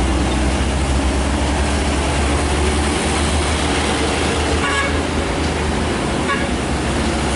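Heavy truck engine running steadily under load with road noise, and two short horn toots a little past halfway.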